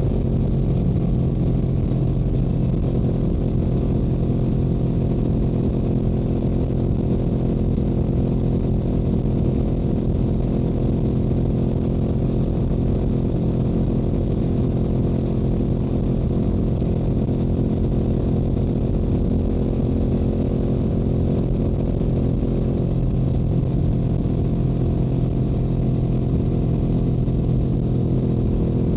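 Stock exhaust of a Yamaha YZF-R7's parallel-twin engine running at a steady engine speed while cruising on the highway, mixed with wind rushing over the microphone.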